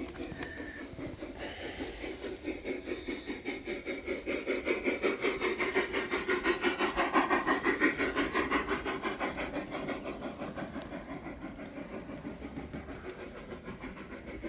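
Garden-scale model train running past, its rhythmic clatter swelling as it comes close about halfway through and then fading as it moves off. There is one sharp click about four and a half seconds in.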